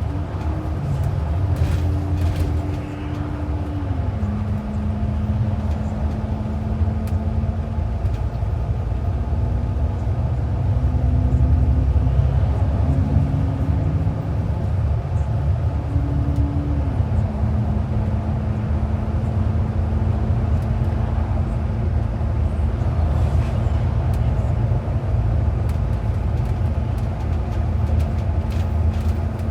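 Transit bus heard from inside the cabin while under way: a steady low engine and road rumble with a droning tone whose pitch drops in a step about four seconds in and again about seventeen seconds in.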